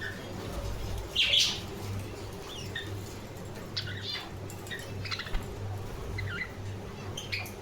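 Budgerigars chirping and chattering in short, scattered calls, with a louder squawk just after a second in, over a low steady hum.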